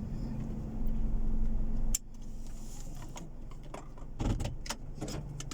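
Car driving with the rumble of road and engine heard inside the cabin; about two seconds in it drops sharply to a quieter low hum as the car comes to rest, followed by scattered clicks and knocks.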